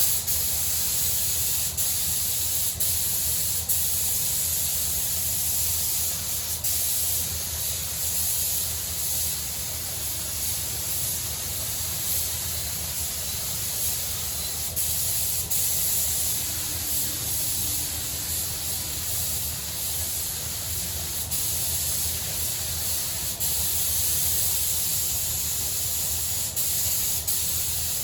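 Compressed-air paint spray gun spraying paint onto a car bonnet: a steady hiss that starts suddenly as the trigger is pulled.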